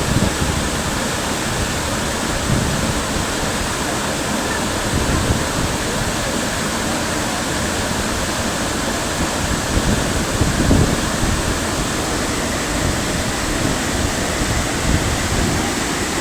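Waterfall rushing: a steady, even noise of falling water. Brief low rumbles of wind on the microphone come now and then.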